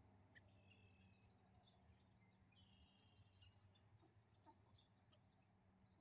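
Near silence: faint bird chirps and short trills come and go over a low steady hum, with a few soft ticks.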